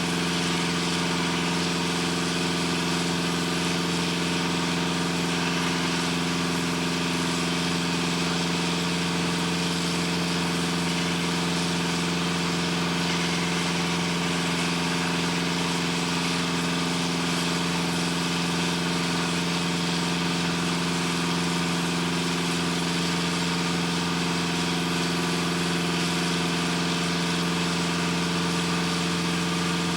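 Machinery running steadily: a constant, unchanging drone with a strong low hum.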